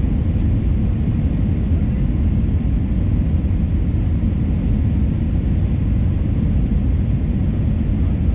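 Steady low rumble of an aircraft in flight, heard from inside the passenger cabin.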